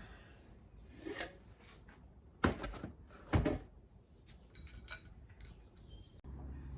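A few separate knocks and clinks of metal fork parts being handled during a fork seal fitting, one of them ringing briefly. A low steady hum comes in near the end.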